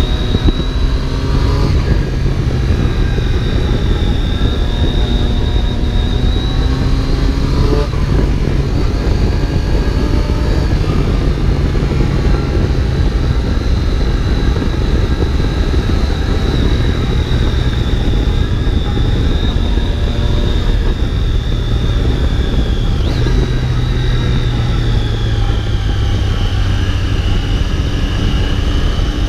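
Triumph Daytona 675's three-cylinder engine and exhaust under way on the move, revs climbing and dropping several times, over a heavy rush of wind noise.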